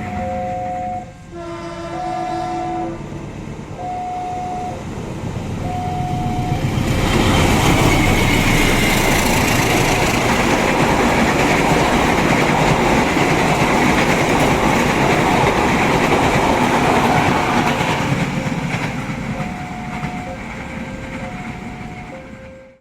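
Railway level-crossing alarm sounding in two alternating tones. About a second in, a train horn blows for under two seconds. From about seven seconds a train passes close by, loud for around eleven seconds, then fades, leaving the crossing alarm alone again before a sudden cut.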